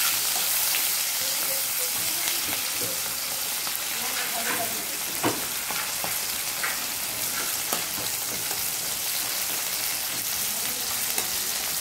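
Sliced onion and garlic sizzling in hot mustard oil in a kadai, stirred with a metal spatula that clicks and scrapes against the pan now and then.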